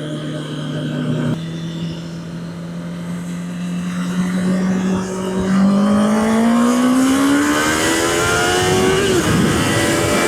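Honda CB650R's inline-four engine pulling on the road: the revs hold fairly steady, then climb steadily from about halfway through, with a brief dip near the end, typical of a gear change. Wind noise grows as the bike speeds up.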